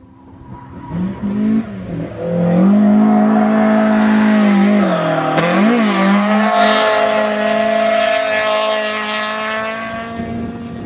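Toyota AE86 Corolla's engine held at high revs through a drift as the car comes in and passes close by. The revs dip and waver briefly about five to six seconds in, with a quick rush as it goes past, then hold high again as it moves away.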